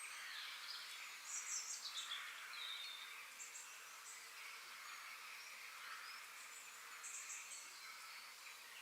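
Forest ambience: small birds chirping in short, high bursts, busiest between one and two seconds in and again about seven seconds in, over a steady high hiss with insects.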